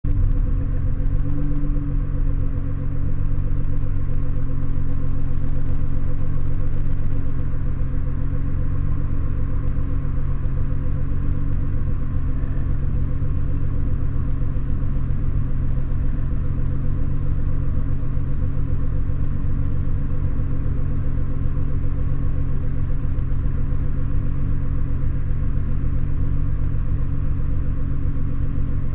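Nissan GT-R with an HKS aftermarket exhaust, its engine running at a steady, unchanging speed with a deep exhaust rumble.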